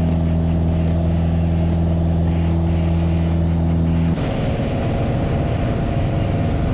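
Piper Archer's four-cylinder Lycoming aircraft engine running at steady power, a constant drone. About four seconds in, the sound cuts abruptly to a rougher, noisier stretch of engine sound.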